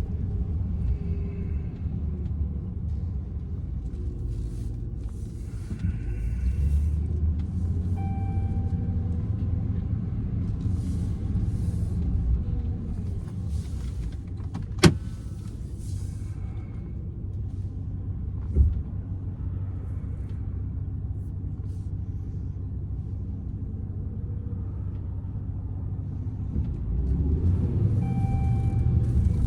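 Cab interior of a 2014 Ram 1500 with the 5.7 Hemi V8 under way: steady low engine and road rumble. A sharp click comes about halfway through and a duller thump a few seconds later, and the rumble grows louder near the end.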